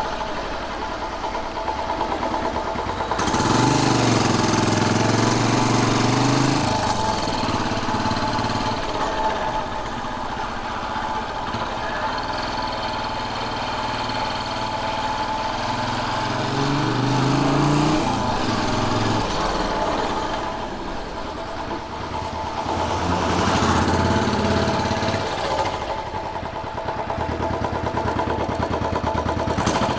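Royal Enfield Bullet 500's single-cylinder engine running while riding, rising in pitch several times as the bike accelerates and easing back in between, with wind rush swelling along with the speed.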